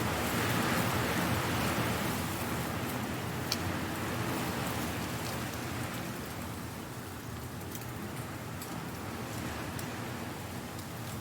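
Strong wind blowing dry leaves, a steady rush of noise with scattered crisp ticks and rustles as leaves skitter and tumble. The gust is strongest in the first few seconds, then eases.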